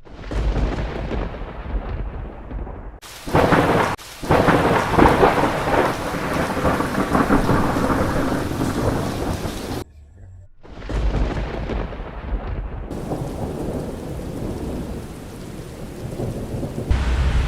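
Thunder rumbling through a thunderstorm over steady rain, with loud surges a few seconds in. Near the middle the sound cuts out abruptly for a moment, then the rain and rumble return.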